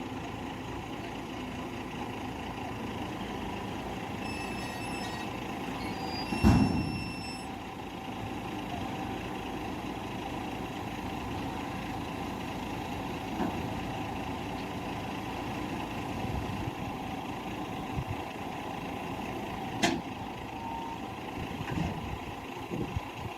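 A truck's engine running steadily, with a loud sudden burst about six and a half seconds in and a sharp click near the end.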